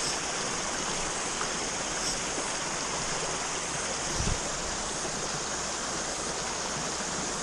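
Small bush stream running over rocks, with a steady high-pitched chorus of cicadas over it. A brief low thump about four seconds in.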